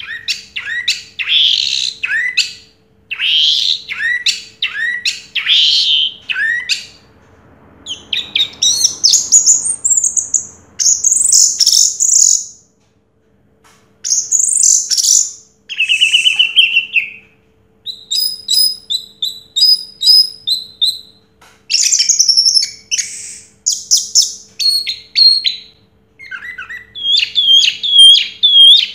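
Orange-headed thrush singing a long, varied song of quick whistled and chattering phrases broken by short pauses, with a fast trill about sixteen seconds in.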